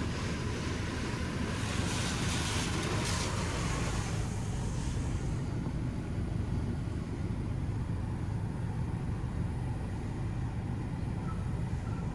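Pro Navigator touchless automatic car wash running: a steady low rumble of machinery, with water jets hissing against the car from about two to five seconds in. A few faint short beeps come near the end.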